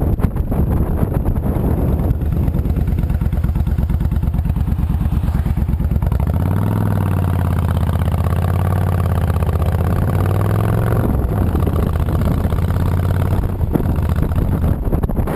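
Honda VTX 1300C V-twin motorcycle engine running with a slow, rhythmic low pulse. About six seconds in the engine pitch rises and holds steady, then eases back near eleven seconds.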